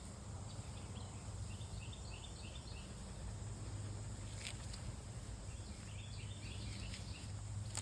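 Outdoor creek ambience: two short runs of quick, high chirps, one about two seconds in and one about six seconds in, over a steady low rumble, with a faint click or two.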